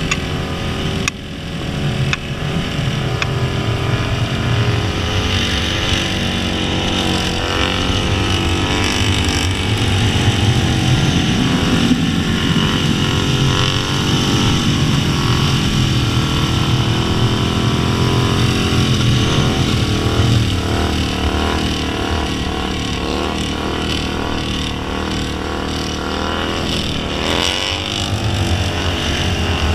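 Motorcycle engine running under throttle through a long wheelie, its pitch rising and falling as the throttle is worked, with a quick rev near the end.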